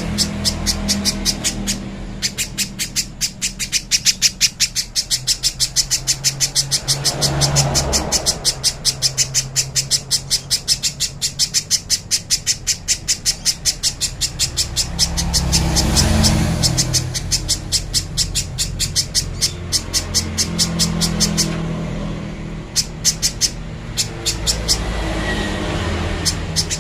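Spiderhunter call: a long, fast run of sharp, high repeated notes at about five a second, kept up without a break. A low rumble swells and fades several times underneath.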